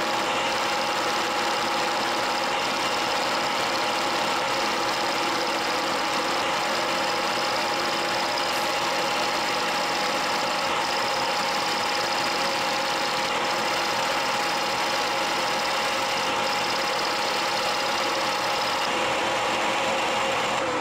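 A machine running steadily: a constant mechanical hum with a steady whine over a dense hiss.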